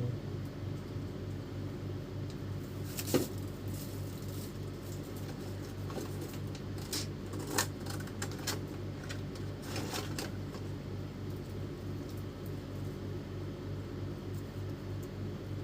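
Small metal and plastic parts clicking and clinking as they are handled and sorted through, a sharp click about three seconds in and a loose cluster of clinks in the middle, over a steady low hum.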